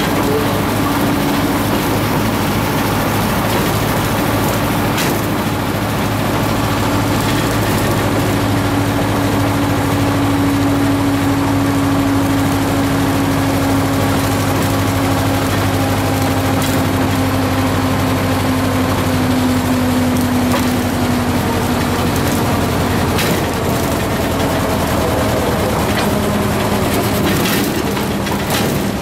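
A small narrow-gauge tourist train heard from on board: a steady diesel engine drone and wheel noise, with a held tone that sinks slowly in pitch over several seconds. Occasional sharp clicks come from the wheels crossing rail joints and switches, more of them near the end.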